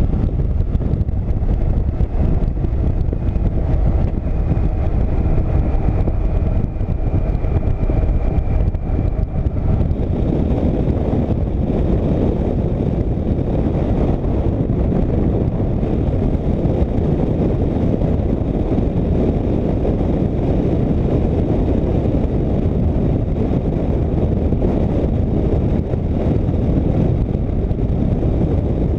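Motorcycle under way at road speed: steady, heavy wind rush over the microphone with the drone of the bike underneath. For roughly the first third a few faint steady engine tones show through the wind, then are buried in it.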